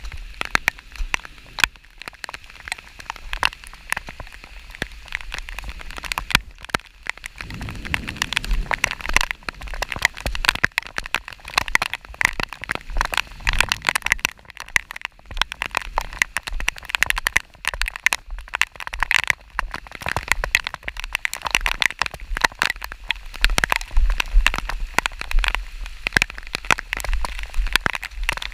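Rain falling, with many drops hitting close to the microphone as a dense, irregular stream of sharp ticks. A brief low rumble swells about eight seconds in.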